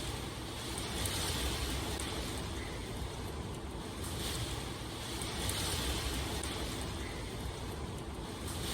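Steady rain ambience: an even hiss of falling rain that swells and eases every few seconds.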